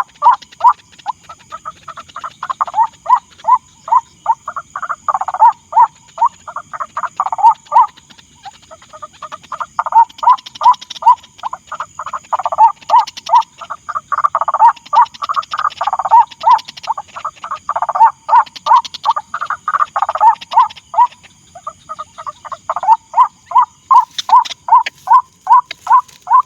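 White-breasted waterhen calling: a monotonous series of harsh, croaking 'kwak' notes, about two or three a second, with a couple of short breaks. A thin, steady high-pitched hum sits underneath.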